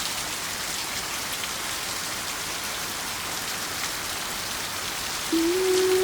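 Steady rain, an even hiss with scattered drop ticks. About five seconds in, a held low musical note comes in over it, wavering slightly in pitch.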